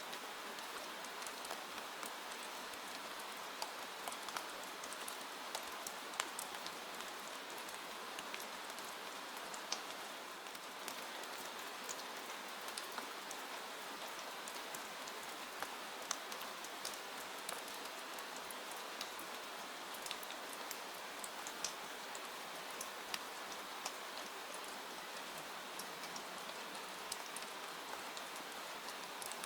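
Steady rain falling, an even hiss, with scattered sharp crackles and pops from a wood fire in a fireplace.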